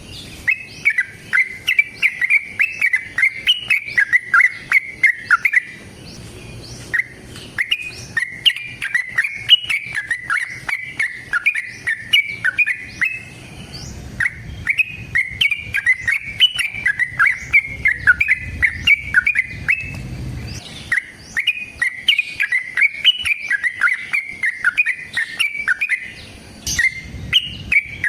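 Yellow-vented bulbul (trucukan) singing long, rapid runs of short chirpy notes in bouts of about six seconds, with brief pauses between them.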